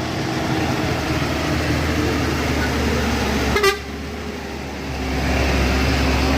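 Heavy vehicle engine running steadily, with a single sharp clack about three and a half seconds in; the engine gets louder about a second later.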